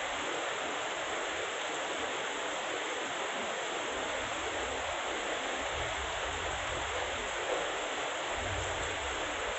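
Heavy rain pouring down in a steady, even hiss, with a faint low rumble in the second half.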